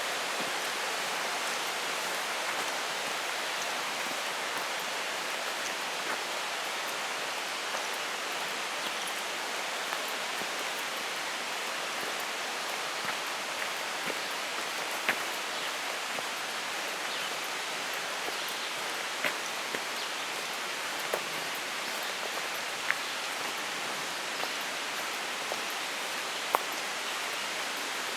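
Small mountain creek running steadily, an even rush of water, with a few sharp ticks now and then.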